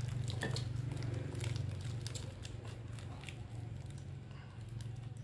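Someone eating a rice-paper roll of crispy fried snakehead fish: faint scattered crunches and clicks of chewing over a steady low hum.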